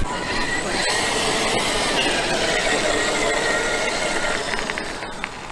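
Traxxas X-Maxx RC monster truck driving: a brushless electric motor whining over a steady rumble of drivetrain and tyres on the ground.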